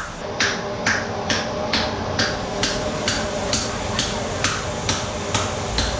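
Regular striking, about two even blows a second, from a worker beating sweet-potato starch paste by hand to make glass noodles.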